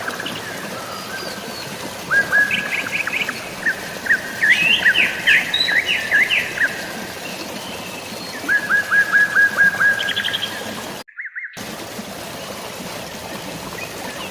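Songbirds singing in repeated phrases of quick chirps and short trills over a steady hiss of rain and flowing water. The sound cuts out completely for about half a second near the end.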